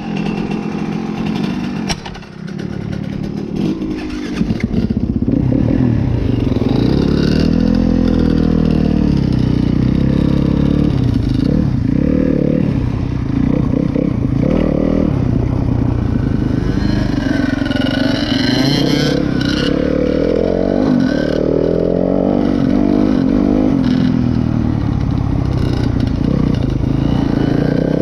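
A 125cc two-stroke dirt bike engine being kicked over and catching in the first few seconds, then running loud with the revs rising and falling.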